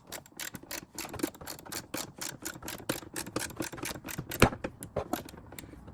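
Hand ratchet with a socket clicking rapidly as a bolt is tightened, with one louder metallic knock a little past the middle.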